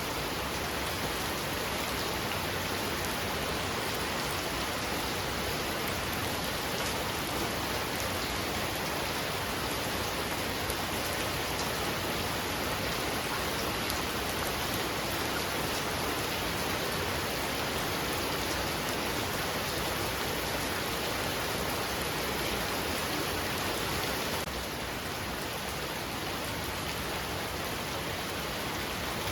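Heavy rain falling steadily, a dense, even hiss of drops on surfaces; the level steps down slightly about 24 seconds in.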